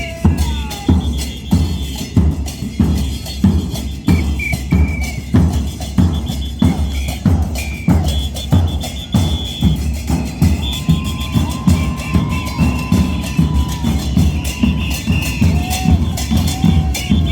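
Carnival parade drum troupe playing: deep bass drums beating steadily about twice a second, with sharper percussion strokes over them.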